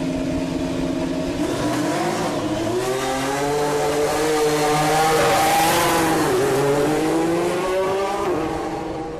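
2016 Formula One car's 1.6-litre turbocharged V6 hybrid engine running hard as it goes past, louder towards the middle and fading near the end. The pitch climbs, dips briefly about six seconds in, climbs again and drops off shortly before the end.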